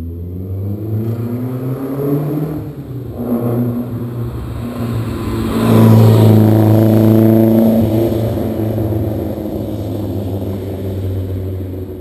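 BMW S14B23 2.3-litre four-cylinder engine, with a carbon airbox and tubular headers, idling and blipped briefly twice, then revved and held higher for about two seconds past the middle before dropping back to idle.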